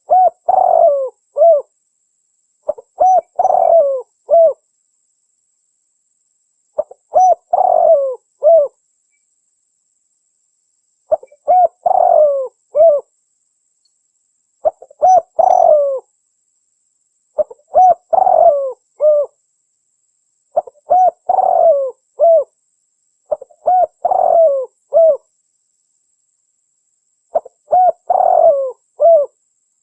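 Spotted dove (tekukur) cooing: nine short phrases of three or four notes each, repeated every three to four seconds with silence between. It is a recorded call played as a lure to draw wild doves.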